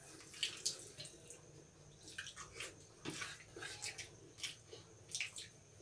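Faint wet eating sounds of rice being eaten by hand: chewing and mouth smacks heard as irregular short clicks, a few a second.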